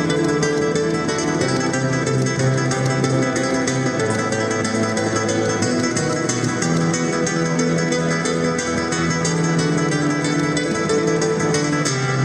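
Solo acoustic guitar playing fast, flamenco-style plucked notes over ringing bass notes, the texture thinning near the end.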